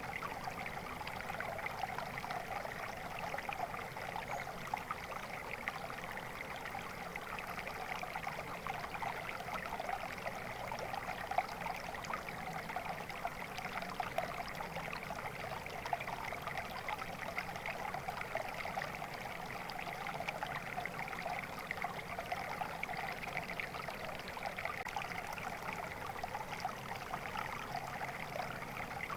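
Water flowing steadily in a stream, a continuous babbling trickle with no change in pace.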